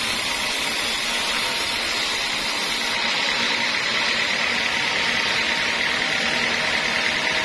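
Sawmill saw running steadily, a continuous high-pitched whine over noise, taking on a fast pulsing near the end.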